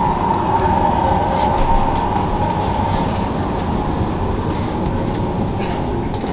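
Commuter train running, heard from inside the passenger carriage: a steady rumble with a whine that fades after about three seconds.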